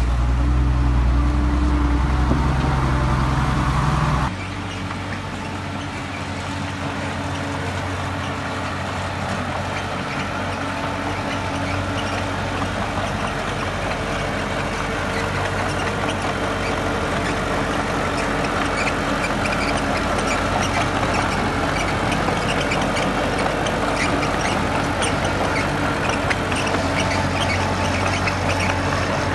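Heavy construction machinery's diesel engine running. The sound drops suddenly about four seconds in to a steadier, quieter run, with light clattering later on.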